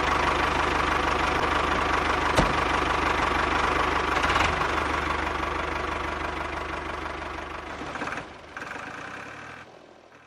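Small motor running steadily with a fast rattling rhythm and a single click about two seconds in, fading away over the last few seconds.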